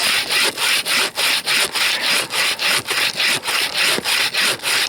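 Bow saw cutting through frozen fir with quick, even back-and-forth strokes, about three to four strokes a second. The frozen wood lets the saw cut with almost no pressure.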